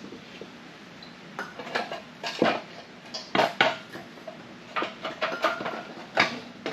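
Sheet-metal air cleaner housing clinking and scraping against the carburetor and its linkage as it is worked into place. The part does not sit down because it catches on the linkage. About a dozen irregular clinks and short scrapes, the sharpest about two and a half, three and a half and six seconds in.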